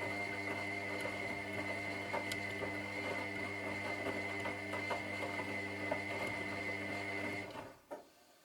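Washing machine running with a steady motor hum and a high whine over light rattles and clicks, then winding down and stopping about seven and a half seconds in, with a single knock as it stops.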